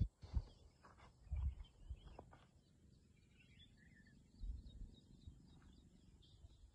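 Small birds chirping over quiet outdoor background noise, with a few low thumps and clicks in the first couple of seconds.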